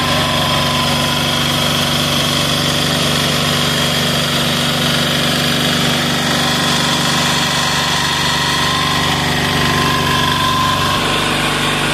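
186FA single-cylinder air-cooled diesel engine running steadily on hydraulic jack oil as fuel, with an even beat and no stumbling.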